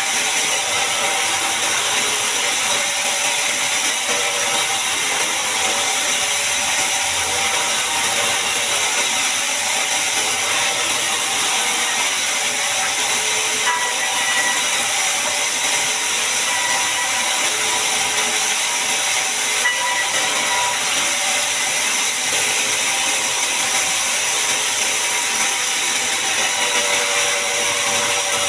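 Sawmill bandsaw cutting through a large mahogany log: a loud, continuous, even noise with steady high tones running through it.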